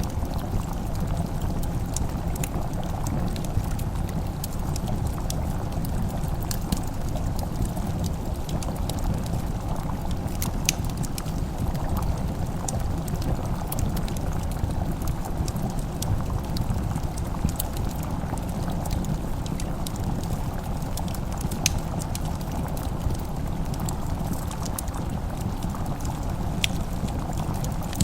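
Wood fire crackling in a fireplace: sharp, scattered pops over a steady low rumble.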